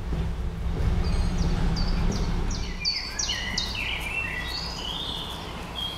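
A songbird sings a run of short whistled notes over a steady low outdoor rumble. The bird starts about a second in, and its notes drop lower in pitch in the second half.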